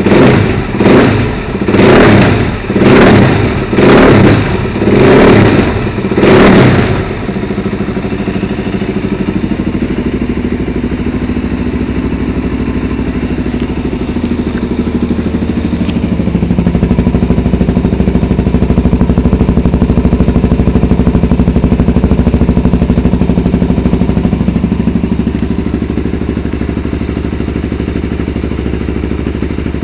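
Suzuki DR-Z400SM's single-cylinder four-stroke engine blipped six times in quick succession, about one rev a second, then settling to idle, a little louder for a stretch in the middle. It runs through a very loud exhaust with the dB killer removed.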